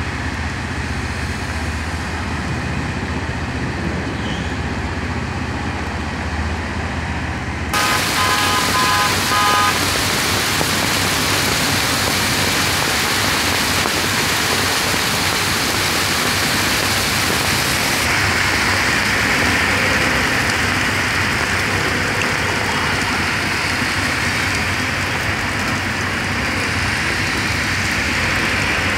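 Heavy rain falling on a wet city street with motor traffic passing through it. About eight seconds in, the sound turns suddenly brighter and fuller, and a vehicle horn gives several short toots.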